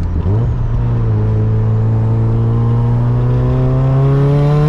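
Car engine under load: its revs jump up about half a second in, then climb slowly and steadily as the car accelerates.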